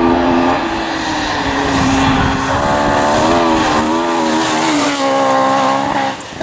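Rally car engine running at high revs under hard throttle, its pitch stepping down at gear changes and wavering as the throttle is worked, then dropping away sharply near the end.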